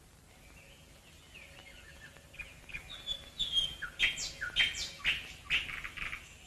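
Birds chirping: quick high chirps and short falling calls that start faintly and grow louder and busier from about three seconds in.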